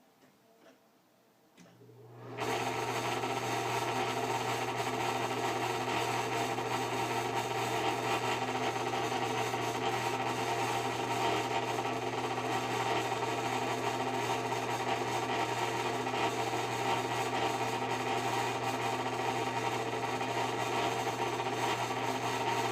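Exhaust fan starting up about two seconds in, then running with a steady motor hum under a loud, constant grinding rattle from its bad bearings.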